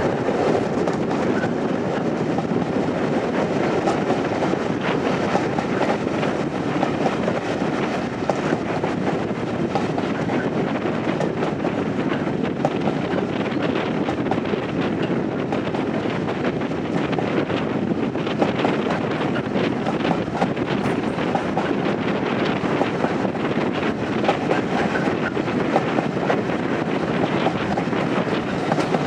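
Heritage railway carriage running along the line, the wheels on the rails making a steady running noise with occasional faint clicks.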